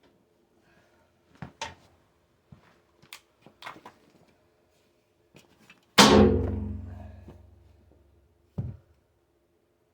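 A few light knocks and clinks of metal, then one loud metal bang that rings on and fades over about two seconds, and a duller thunk near the end: steel being struck or dropped in the workshop.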